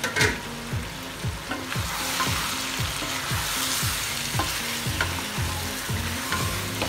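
Mutton, onions and tomatoes sizzling in hot oil in a nonstick wok while a wooden spatula stirs and turns them, with scattered clicks of the spatula against the pan. The sizzle grows louder about two seconds in as the food is turned.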